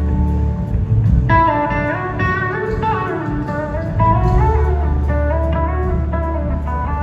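Live band music: an electric guitar plays a melodic lead line that steps up and down in pitch, with some gliding notes, over bass and band accompaniment.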